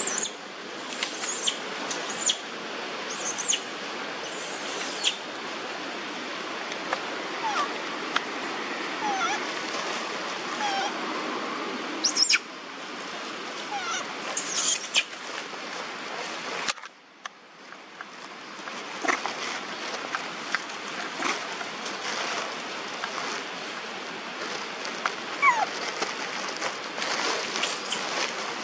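A young monkey making many short, high-pitched squeaks and chirps over a steady background hiss.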